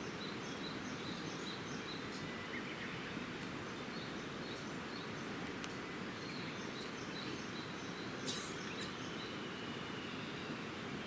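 Campfire crackling, with a few sharp pops, over a steady low rushing background. A bird calls in runs of short high chirps, about two to three a second.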